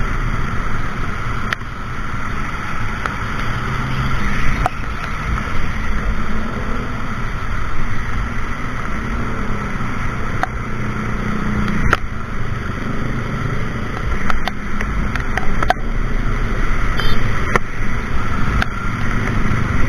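Motor scooter riding, its small engine hum under steady wind rumble on the microphone, with a few sharp clicks along the way.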